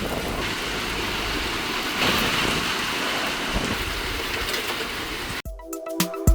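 Steady hiss of rain falling. About five seconds in it cuts off abruptly and a music jingle with struck, mallet-like notes begins.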